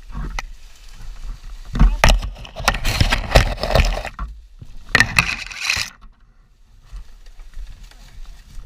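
Scraping and rustling, in a long stretch from about two to four seconds in and a shorter one around five seconds in, as people move and search around a crashed motorcycle lying in brush.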